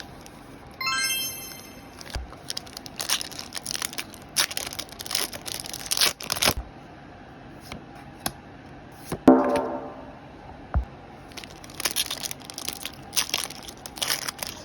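Foil booster-pack wrappers crinkling and tearing open in bursts of sharp crackles. A short high-pitched tone sounds about a second in, and a louder, lower-pitched sound lasting about a second comes around nine seconds in.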